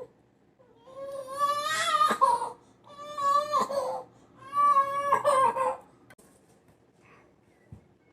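A young child crying in three long, high-pitched wails.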